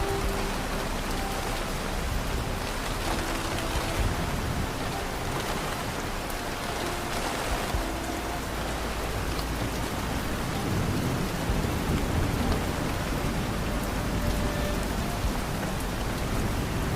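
Steady rain falling, an even hiss with a low rumble swelling briefly about ten seconds in.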